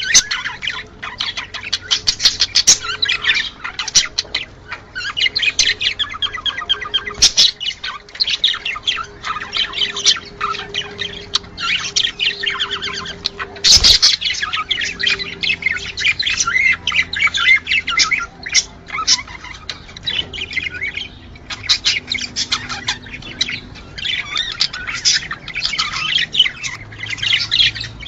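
Budgerigars chattering and warbling in the busy chirp-and-squawk mating song of budgies: a dense, unbroken stream of fast chirps. A sharp knock comes about fourteen seconds in.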